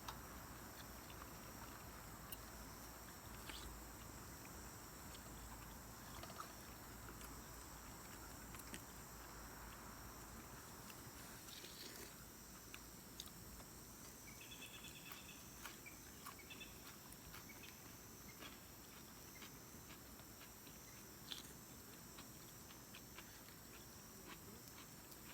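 Faint, steady chorus of grass insects such as crickets, a high thin trill, with scattered small clicks and taps, and a short run of quick chirps about fifteen seconds in.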